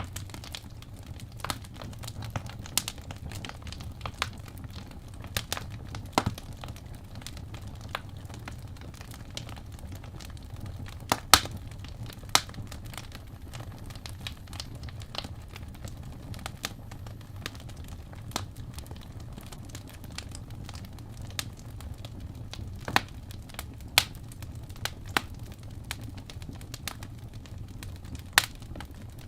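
Wood fire burning in a fireplace: irregular crackles and sharp pops over a low, steady rumble. The loudest pops come about eleven and twelve seconds in.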